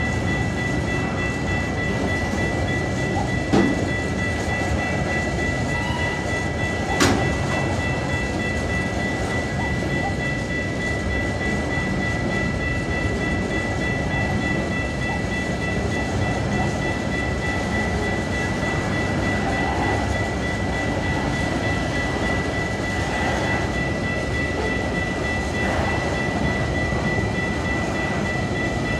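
Tasrail freight train's container and tank wagons rolling past, the wheels rumbling and clacking over the rails, under a steady high tone. Two sharp clanks stand out, about three and a half and seven seconds in.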